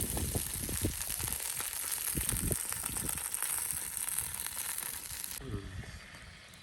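Food sizzling and spitting in a hot pan, a steady hiss full of fine crackles that cuts off abruptly about five seconds in, leaving a fainter background hiss with a few low knocks.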